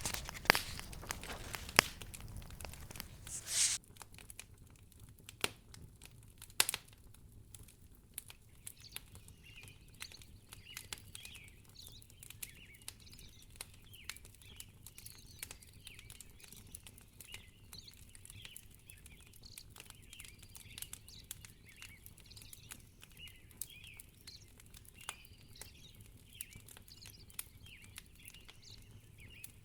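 Wood fire crackling with scattered sharp pops. A louder rustling crackle stops abruptly about four seconds in. After that, faint short bird chirps come and go under the quieter crackle.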